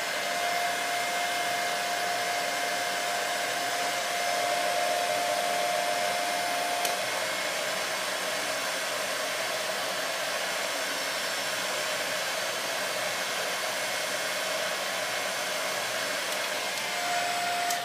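Handheld hair dryer running on low heat: a steady rush of air with a motor whine. About seven seconds in there is a click and the whine shifts slightly lower as the cool button is pressed. The dryer cuts off at the very end.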